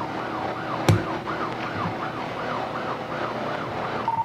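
Police car siren on yelp, its pitch sweeping rapidly up and down a few times a second. A single sharp knock about a second in.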